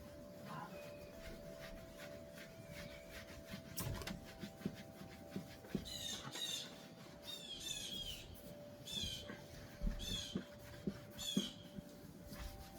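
A cloth wiping wood polish over a wooden table top, with a run of short, high squeaks from about halfway through, several of them with a light knock.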